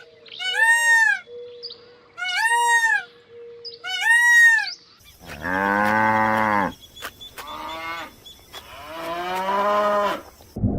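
Cattle mooing: two long lowing calls in the second half, the first the louder. They are preceded by three short, higher-pitched arched calls from an animal that cannot be identified.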